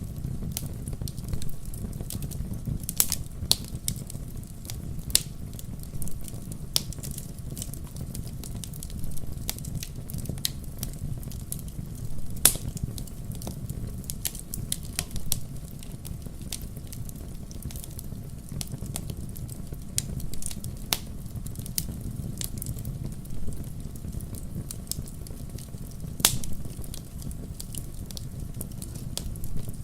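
Wood fire crackling in a fireplace: a steady low rumble of burning logs with irregular sharp pops and snaps, two of them louder, one about twelve seconds in and one near the end.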